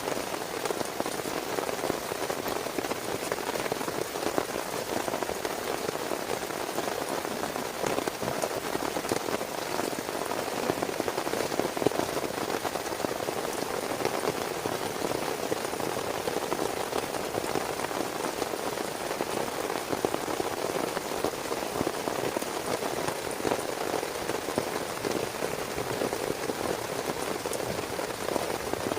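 Heavy rain falling steadily, a dense unbroken patter of drops striking a surface.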